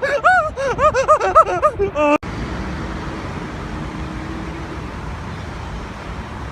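Quick, repeated chirps that rise and fall in pitch, then an abrupt cut about two seconds in to a steady rushing engine noise with a faint low hum.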